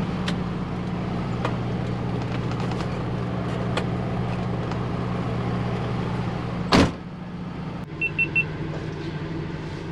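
HGV diesel engine idling steadily, then a short, loud hiss of compressed air about seven seconds in as air is let out of the lorry's system. Near the end there are three short, high beeps.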